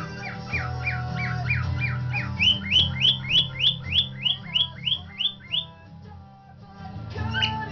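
Cockatiel calling in a quick run of short chirps, about three a second, over music. The first chirps sweep downward; from about two and a half seconds in they turn higher and louder. The run breaks off around six seconds, and one more call comes near the end.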